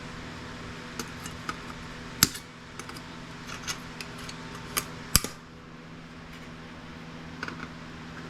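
Small hand tool clicking and tapping against a circuit board in scattered light ticks, with two sharper knocks about two and five seconds in, over a steady background hum.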